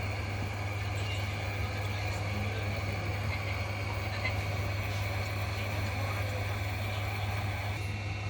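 Hot air rework station blowing steadily over the motherboard, an even hiss over a constant low hum, while MOSFETs are being desoldered and replaced.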